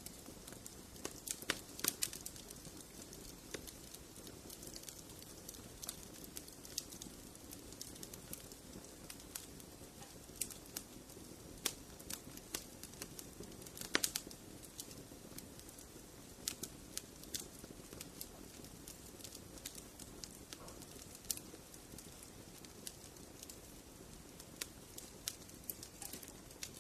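Wood fire crackling in a fireplace: irregular snaps and pops over a low steady hiss, with a couple of louder pops about 2 and 14 seconds in.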